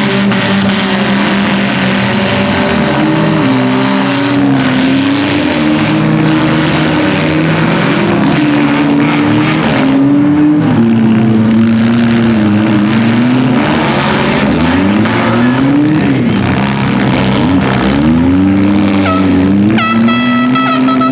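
Several compact demolition derby cars' engines revving, their pitch rising and falling over and over as the cars drive and ram. A steady high-pitched tone, like a horn, starts near the end.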